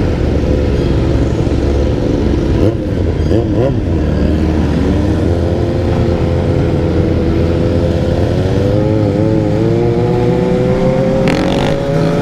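Dirt bike engine running continuously, its pitch slowly climbing in the second half, with a couple of quick revs about three seconds in.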